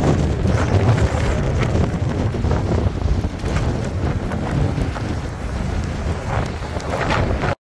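Strong wind buffeting the microphone, a heavy low rush with gusts, which cuts off suddenly near the end.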